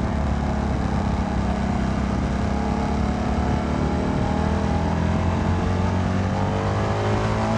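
Single-cylinder engine of a 2022 CFMoto 300NK running at speed, with wind rush on the helmet microphone. The engine note climbs steadily over the last few seconds as the bike accelerates.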